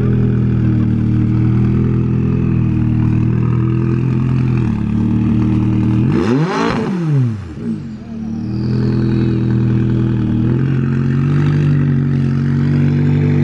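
Sports car engines running as cars roll out. About six seconds in, one engine gives a sharp rev that climbs and drops back within a second or so, followed by a faint falling whistle.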